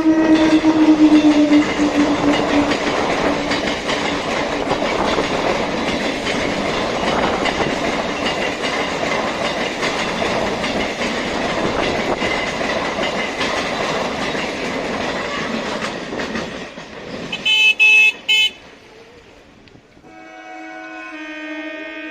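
Suburban electric local train sounding its horn, the pitch dropping a couple of seconds in as it passes, then the rumble and clatter of the train running by for about fourteen seconds. A brief high-pitched squeal follows, and near the end another train horn starts sounding steadily.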